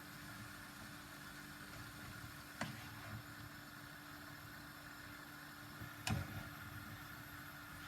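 A steady low hum with two short, sharp knocks, about two and a half and six seconds in.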